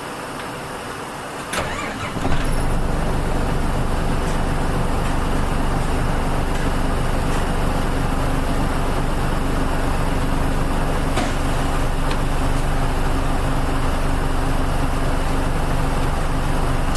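Nissan Diesel KL-UA452MAN city bus's diesel engine restarting about two seconds in, with a brief starter click and a catch, then idling steadily, heard from inside the cabin.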